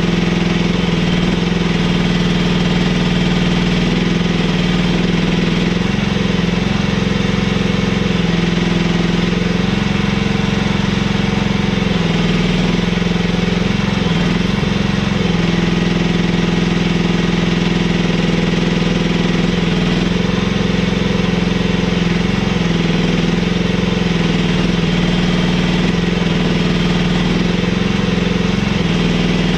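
Mini excavator engine running steadily, its pitch dipping briefly now and then as the hydraulics take load while trenching.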